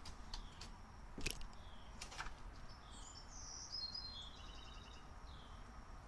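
Small bird chirping: short down-slurred chirps, then a quicker run of higher chirps and a brief trill about three to five seconds in. A few sharp clicks in the first two seconds.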